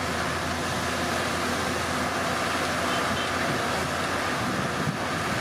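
Diesel engine of heavy earthmoving machinery running steadily, a constant low drone with no breaks or impacts.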